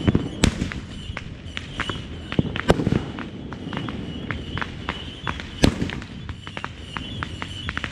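Consumer fireworks going off: a rapid, irregular string of sharp crackling pops, with louder bangs about half a second in, just before three seconds in, and just before six seconds in.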